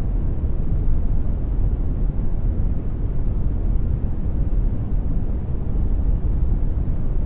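Generated brown noise: a steady, even rumbling hiss, strongest in the low end and thinning out toward the highs.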